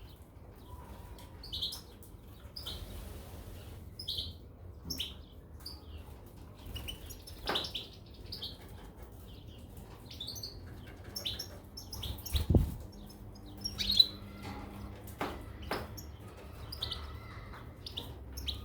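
Goldfinches and canaries giving short scattered chirps, mixed with sharp clicks and knocks, and one low thump about twelve seconds in.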